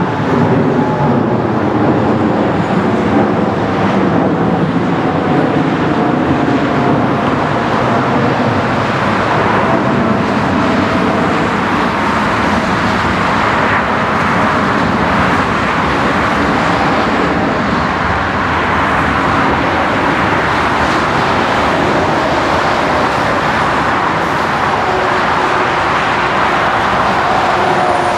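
Boeing 777-300ER's twin GE90-115B turbofans running with a loud, steady jet roar as the airliner passes. Faint whining tones slowly fall in pitch.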